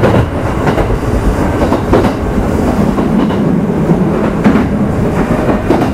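Kintetsu 1810 series electric train running, heard from inside motor car Mo 1826: a steady rumble of wheels and running gear with clacks as the wheels cross rail joints.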